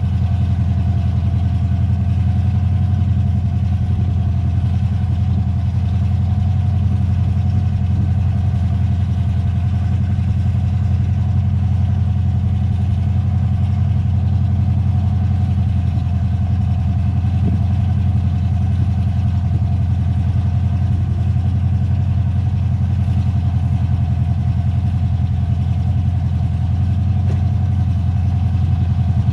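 An engine running at a constant speed, a steady low drone that neither rises nor falls.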